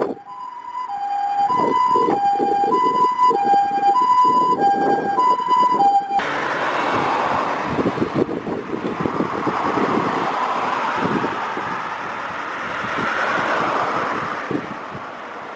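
Two-tone hi-lo emergency-vehicle siren, such as an ambulance, alternating between a higher and a lower note, each held about half a second. About six seconds in it stops abruptly, and a steady rushing noise takes over, swelling and fading.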